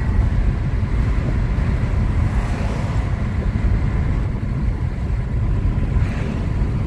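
Cabin noise inside a Hyundai Aura S CNG driving at about 100 km/h on a highway with the windows down: a steady, loud rush of wind buffeting and tyre and road noise, heaviest in a deep, fluttering rumble.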